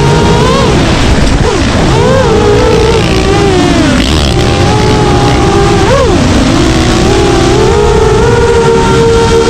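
FPV racing quadcopter's motors and propellers whining, the pitch swooping up and down as the throttle changes, with a rushing noise underneath.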